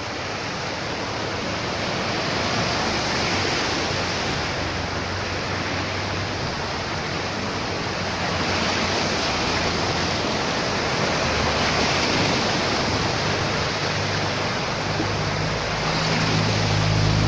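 Steady rushing noise of rain and floodwater, swelling and easing in waves. A low steady hum joins it about two-thirds of the way through and grows louder near the end.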